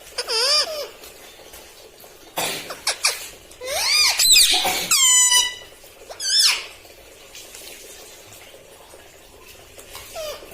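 Pet rose-ringed parakeet giving a run of shrill, squeaky calls that warble rapidly up and down in pitch, in about five short bursts over the first six seconds or so.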